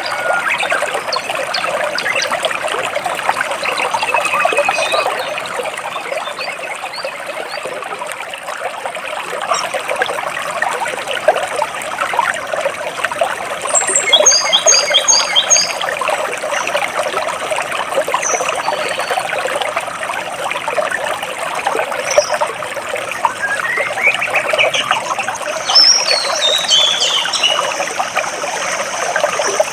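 Water trickling and flowing over rocks in a steady rush, with birds chirping above it: a quick run of repeated high notes about halfway through and a tumbling series of chirps near the end.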